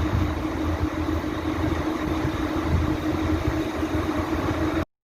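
Truck diesel engine idling steadily, a low rumble with a constant hum, cutting off suddenly near the end.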